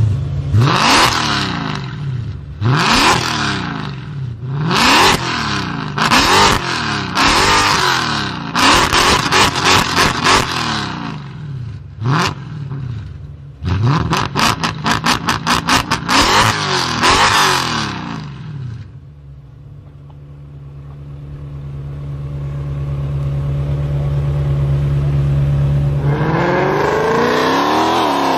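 Mercedes-Benz C63 AMG's 6.2-litre V8 revved repeatedly while standing, through its quad exhausts: quick blips rising and falling every second or two, two of them breaking into a fast stutter. About 19 seconds in it settles to a steady low idle, and near the end the engine note climbs and falls as the car accelerates.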